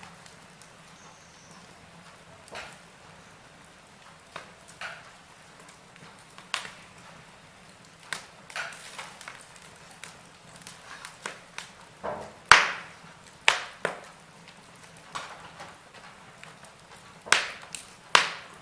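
Wood fire crackling in a fireplace: irregular sharp pops and snaps over a faint steady hiss, with the loudest pops about twelve seconds in and near the end.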